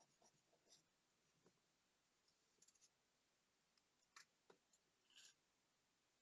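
Very faint, scattered small clicks and brief scrapes of small tools handling tiny watch parts, the most distinct few in the second half, over near silence.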